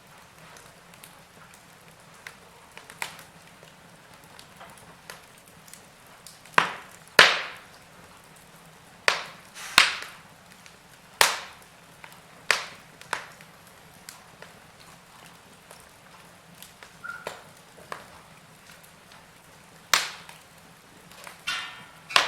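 Wood fire in a fireplace crackling: irregular sharp pops and snaps, a few of them loud, over a faint steady hiss.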